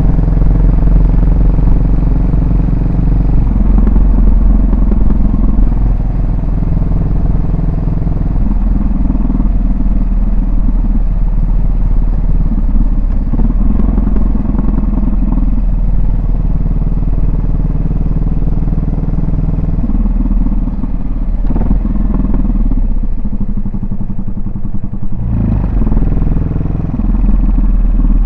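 Yamaha SR400's air-cooled single-cylinder four-stroke engine running under way, its exhaust note shifting in pitch several times with throttle and gear changes. It eases off for a couple of seconds late on, then picks up sharply again near the end.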